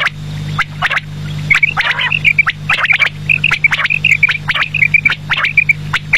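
Quail calling: rapid series of short, high chirping notes, with sharp clicks in between and a steady low hum underneath.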